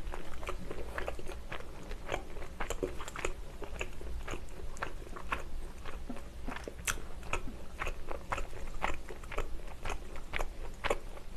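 A person chewing chicken close to the microphone: wet mouth sounds with a steady scatter of small crisp clicks and crackles.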